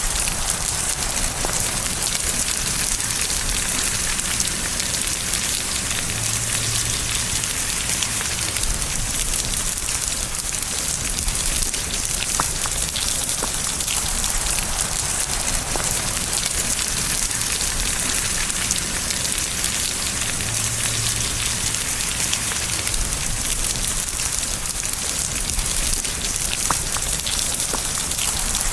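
Steady rain falling: an even hiss of dense rainfall, scattered with the ticks of single drops.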